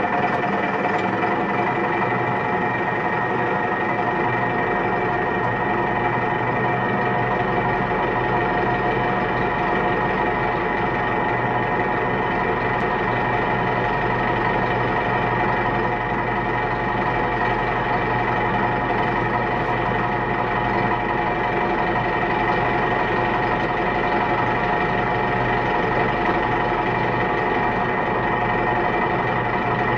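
Vehicle engine running at a steady, even speed for the whole stretch, with a constant whine over it and no change in revs.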